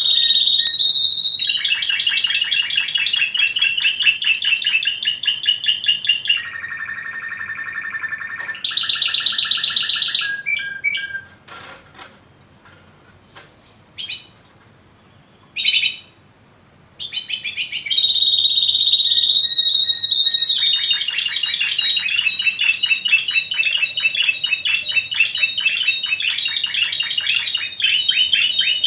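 Canary singing: long runs of fast trills and rapidly repeated notes, breaking off for several seconds about a third of the way in with only a few short chirps, then launching back into continuous song.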